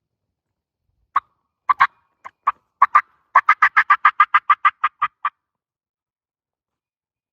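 Turkey calling: a few scattered notes, then a quick run of about six sharp notes a second that stops about five seconds in.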